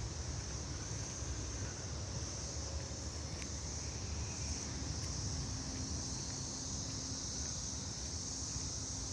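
Steady high-pitched chorus of insects, over a low rumble of wind on the microphone.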